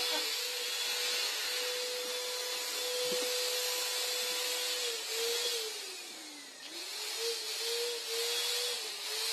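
Electric paint sprayer running with a steady whine and rushing hiss while spraying clear Plasti Dip mixed with glitter. About six seconds in, the motor's pitch sags and then recovers, wavering a little after that.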